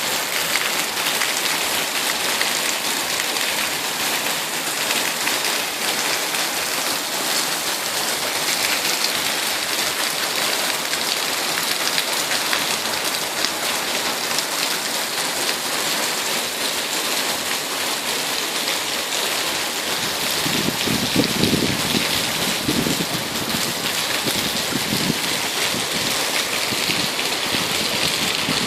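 Heavy tropical rain falling steadily, a dense even hiss. About two-thirds of the way through, a low rumble of thunder rolls in for several seconds under the rain.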